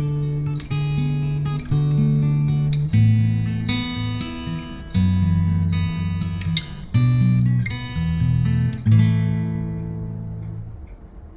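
Background music: acoustic guitar strummed and picked in a run of changing chords, fading down near the end.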